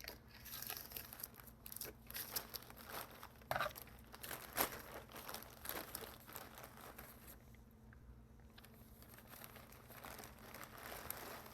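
Packaging crinkling and tearing in irregular bursts as a mailed jewelry bag is opened.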